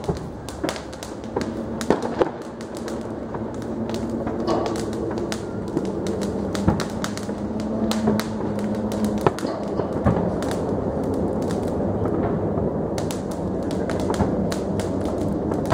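Distant fireworks and firecrackers going off all around: a constant scatter of pops and crackles with a few louder bangs, over a low steady hum in the middle stretch.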